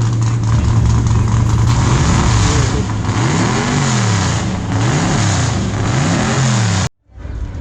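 A car engine running loudly at a steady idle, then revved three times, the pitch climbing and falling back each time. It cuts off abruptly just before the end.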